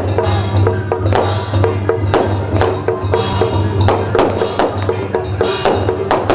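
Procession music: rapid clacking percussion and drum strikes over sustained instrument tones, playing continuously.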